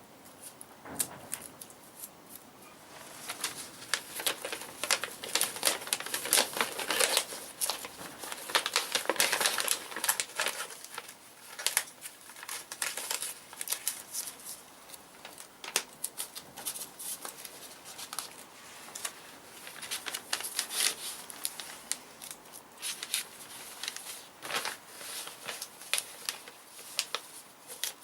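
Irregular scratching and rustling of hand work on a small part, in uneven stretches, busiest from about four to thirteen seconds in.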